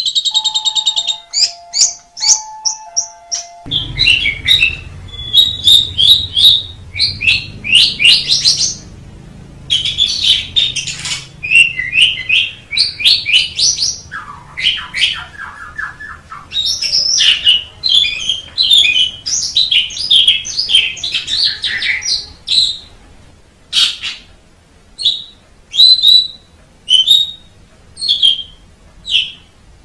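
Asian pied starling (jalak suren) singing a long, varied song of loud whistles, chattering and rasping notes in quick phrases. Near the end it shifts to a series of short, evenly spaced calls.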